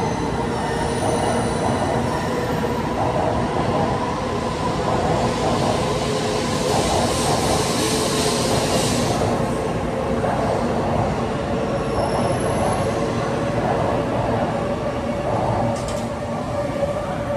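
N700-series Shinkansen train pulling out of the station and passing close by, a steady running noise of wheels and a hum from the train. A rushing hiss swells midway through, and the sound eases a little near the end as the last car goes by.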